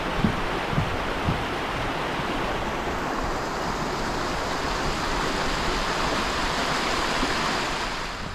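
A small woodland stream rushing and babbling steadily, getting a little louder in the second half, with a few soft thumps near the start.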